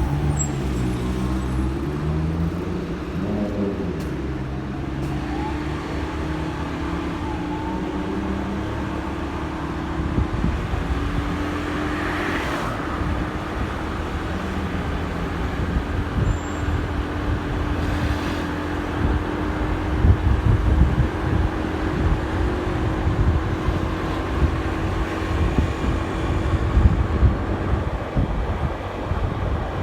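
Motorcycle engine heard from the bike while riding in city traffic, its pitch rising and falling for the first few seconds, then holding steady as low wind rumble on the microphone grows.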